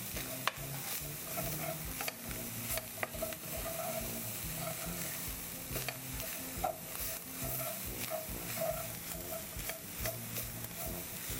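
Ground meat with onions and peppers sizzling in a metal pot while a slotted spatula stirs it, scraping and clicking against the pot over and over.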